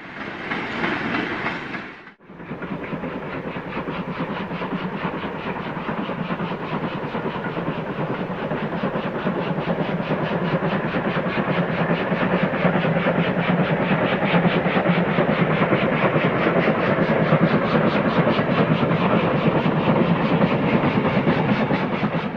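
Model trains running on the layout's track: a steady motor hum with a fast, even rattle of wheels on rail, broken by a short dip about two seconds in.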